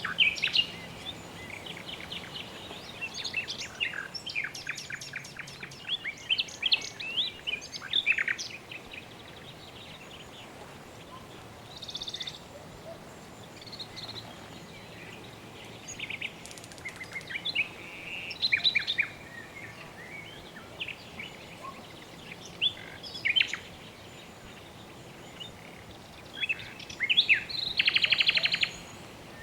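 Birds chirping and singing in short bursts of quick notes, with a fast trill near the end, over a steady faint hiss.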